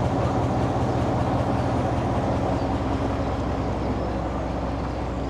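Diesel locomotive engine idling steadily with a low, even drone.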